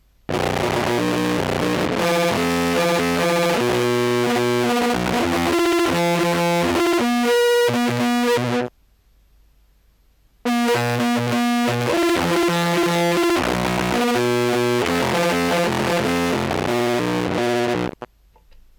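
Contrabass clarinet line played through a Dream Machine effects pedal in random mode and a Jackson Audio Modular Fuzz with the Fuzz Page Mark II module: a heavily fuzzed, distorted low tone whose pitch jumps in steps. The phrase plays twice, each pass cutting off abruptly, with a gap of under two seconds between them.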